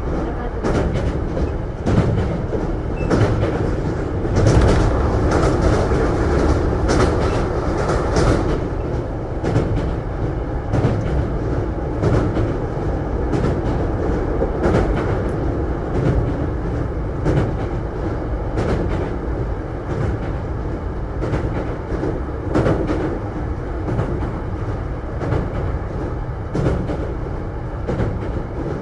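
Hankyu 9000 series electric train running, with a steady low rumble and the wheels clicking over rail joints many times, the clicks coming thickest in the first several seconds.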